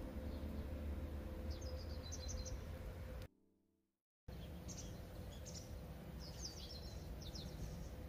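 Small birds chirping in short, high twittering phrases over a steady low outdoor background. The sound cuts out completely for about a second midway, then the chirping resumes.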